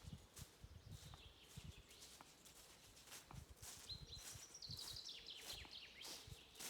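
Small bird singing a quick run of short falling chirps, loudest about four seconds in, over faint low thuds and clicks.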